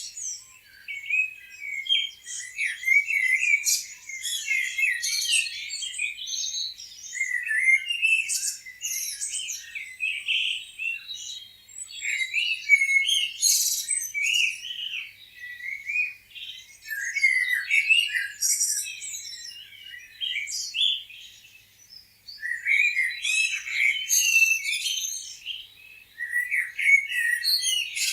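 A chorus of many small songbirds chirping and twittering, with short, quick, high-pitched calls overlapping and coming in busy clusters that swell and thin out.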